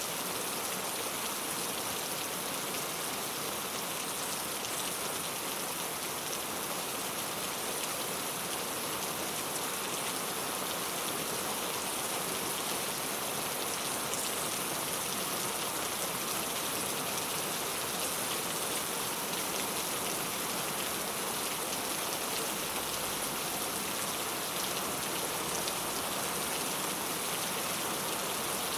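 Steady rain falling on a clay-tile roof, a continuous even patter with no let-up.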